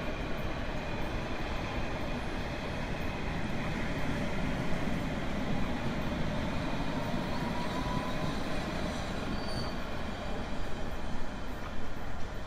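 Steady rumble of a moving train running on rails, with a faint thin whine that rises a little around the middle, like wheel squeal. A few louder knocks come near the end.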